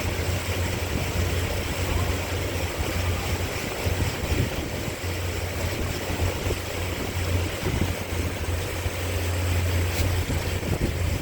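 Boat's engine running with a steady low drone, under a steady wash of wind and water noise.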